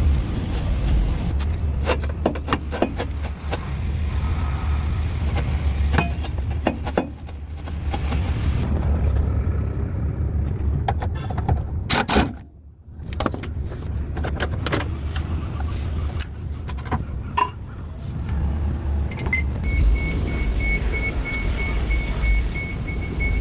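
Car running with a steady low rumble under scattered clicks and knocks. About three quarters of the way through, a rapid, evenly repeated high electronic beep starts and keeps going.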